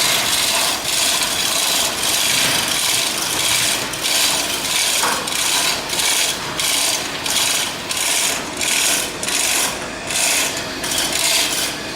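Metalworking on a steel ship's hull block: a loud, harsh rasping hiss from a tool working the steel. It is near-continuous at first, then breaks into short strokes about twice a second.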